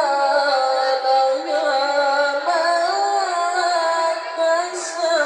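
A young qari's voice holding one long, ornamented note in melodic Quran recitation, the pitch wavering and turning as the vowel is drawn out.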